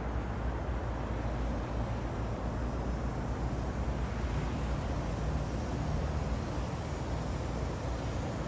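A 2018 Bentley convertible's engine idling with a steady low exhaust rumble, no revving.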